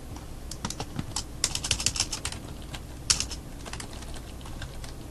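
Typing on a computer keyboard: irregular runs of key clicks, busiest from about a second and a half to two and a half seconds in, with another quick run around three seconds in.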